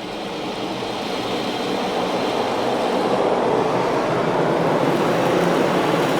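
Ryko automatic car wash air dryer blowers starting up, a rush of air that grows louder over the first three seconds or so and then holds steady.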